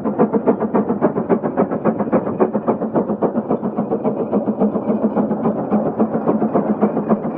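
Case 150 hp steam traction engine chuffing steadily, its exhaust beats coming in a rapid, even rhythm as it works under the load of a big gang plow.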